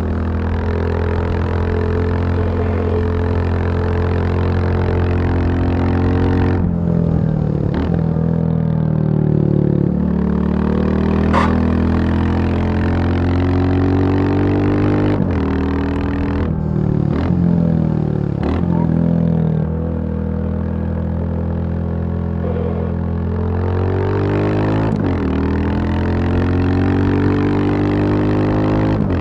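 Royal Enfield Bullet 350's single-cylinder four-stroke engine running, its pitch climbing steadily and then dropping sharply several times, about seven times in all.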